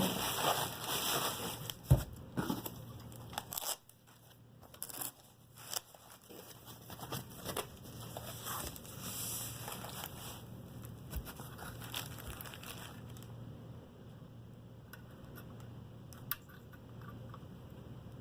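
Packaging crinkling and rustling as it is handled, densest in the first few seconds, with a sharp thump about two seconds in. The handling thins to scattered crinkles and clicks later on.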